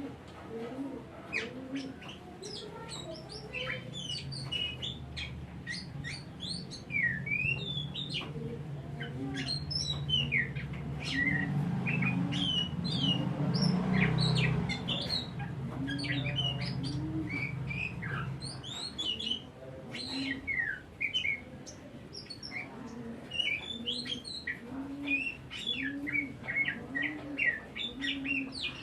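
Oriental magpie-robin (kacer) singing a fast, varied song of whistles and chirps. Under it a dove coos in low notes repeated about once a second, and a low hum swells up in the middle and fades again.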